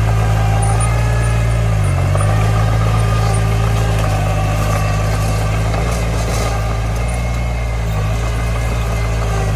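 Diesel engine of construction machinery running steadily at low speed, with a brief dip in pitch about two seconds in.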